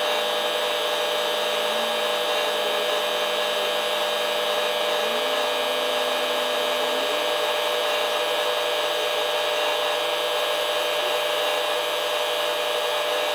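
Electric power sander running steadily on the camper's aluminum skin with 1000-grit paper.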